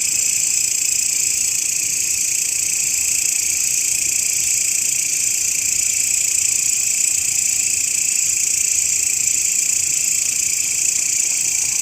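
Grasshopper (belalang) stridulating: a continuous, steady, high-pitched buzzing trill with no breaks.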